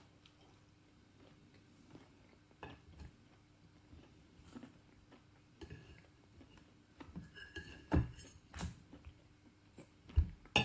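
Cutlery clicking, scraping and knocking on a plate as a pie with hard, tough pastry is cut apart. The sounds are sparse at first and grow busier, with a brief squeak and the loudest knocks about eight seconds in.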